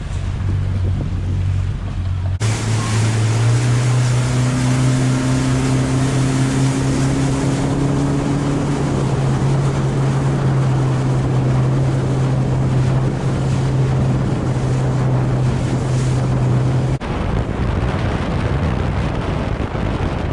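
Mercury outboard motor running steadily at speed, its note stepping up slightly a few seconds in, over wind on the microphone and water rushing past the hull.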